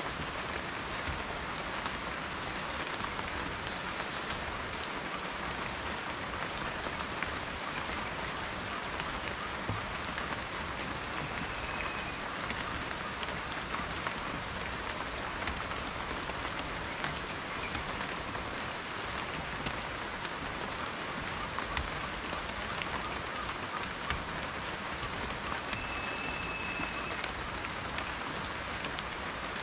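Steady rain falling, an even hiss with many separate drop hits through it. Twice, about a third of the way in and again near the end, a short faint high whistle sounds over the rain.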